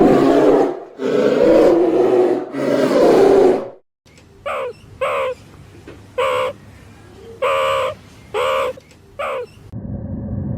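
Animal calls: three loud, rough calls at the start, then after a break six short pitched calls spaced about a second apart, then a steady low rumble near the end.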